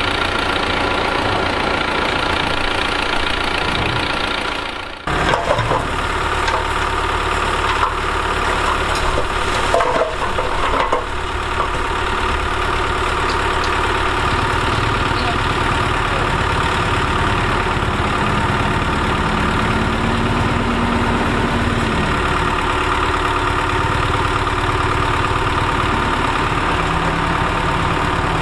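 Diesel engine of heavy earthmoving machinery running steadily, cutting out for an instant about five seconds in, with a few knocks over the following seconds. Past the middle the engine note rises and falls once.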